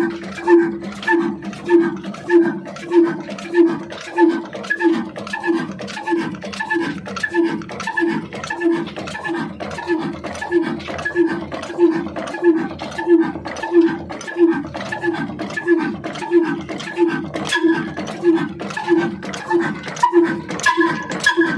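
A slow-running engine chugging steadily, with an even beat of about two pulses a second.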